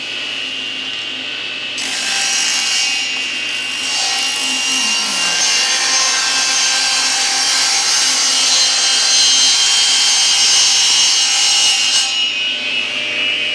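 Power saw running, then cutting wood into thin rails from about two seconds in until shortly before the end, when the blade runs free again.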